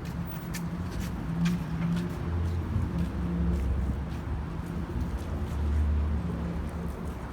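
Wind buffeting the microphone as a low, uneven rumble that swells and fades, loudest around two to three seconds in and again near six seconds, over city street traffic.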